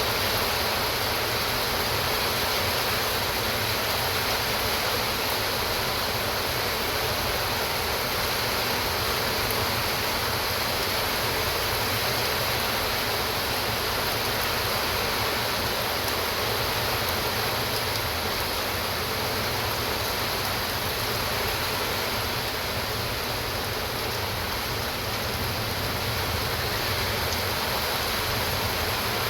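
Heavy rain pouring steadily, an even unbroken rush of water.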